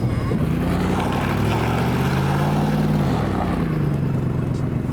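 Truck engine revving up, holding its pitch for about a second, then dropping back as the throttle comes off.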